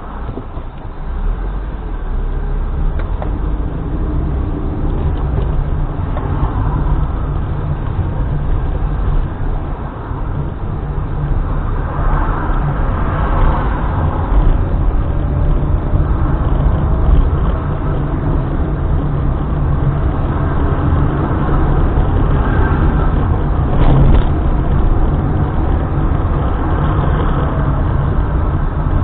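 Car driving: a steady engine and road-noise rumble, with slow rises and falls in engine pitch.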